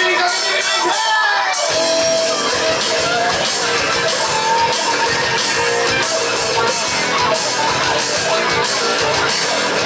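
Live rock-and-roll band playing: guitars with a sung, shouted vocal, and the drums joining in with a steady beat about a second and a half in.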